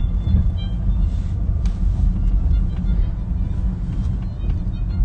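Steady low road and tyre rumble inside the cabin of a moving Tesla, with faint music underneath.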